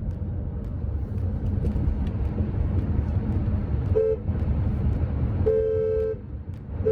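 Steady low rumble of a road vehicle, with a brief two-tone car horn toot about four seconds in and a longer honk of about half a second shortly after.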